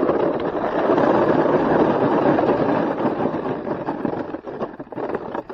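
Snowboard scraping and chattering over hard, icy snow: a loud, continuous rough scraping that dips briefly near the end.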